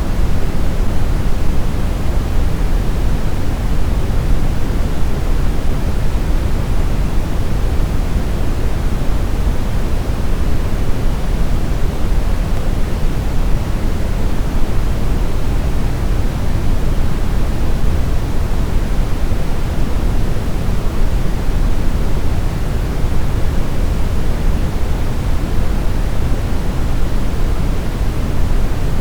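Steady synthetic brown noise: an even, deep rumbling hiss with most of its weight in the bass, unchanging throughout.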